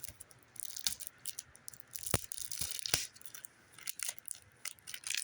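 Trading cards being handled and flipped through one by one: irregular crisp clicks and short rustles of card stock, with two sharper snaps about two and three seconds in.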